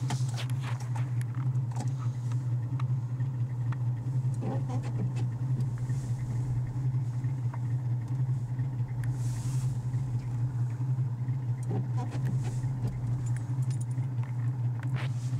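A car engine running at a steady hum, heard from inside the cabin, with faint scattered clicks.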